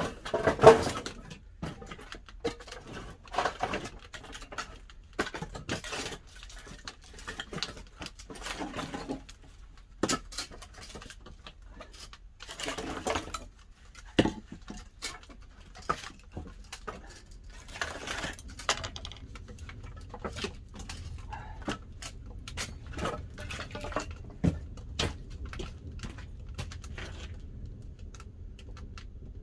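Pine firewood burning in a wood-fired kiln, crackling with irregular sharp pops and snaps.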